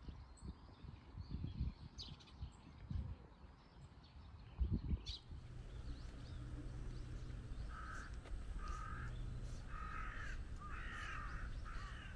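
A bird calling harshly over and over, about five short calls in the second half, over a low steady hum. Irregular low thuds come in the first half.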